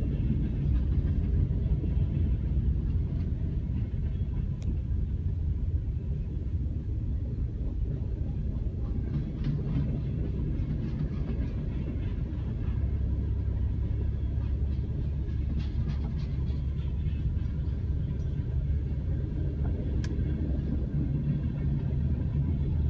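Freight train of tank and hopper cars rolling past a level crossing: a steady low rumble, muffled as heard from inside a stopped car, with faint clicking about halfway through.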